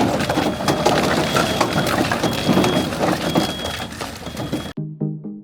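Split firewood logs clattering and knocking against each other in quick, irregular succession as they are tossed and stacked. It cuts off abruptly about four and a half seconds in, and plucked background music with a steady beat takes over.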